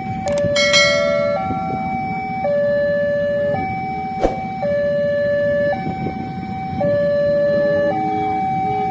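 Railway level-crossing warning alarm sounding its two-tone electronic signal, switching between a higher and a lower tone about once a second, the warning that a train is coming and the barriers are down. A low engine rumble runs underneath, with a short burst of higher tones about a second in and a single sharp click about four seconds in.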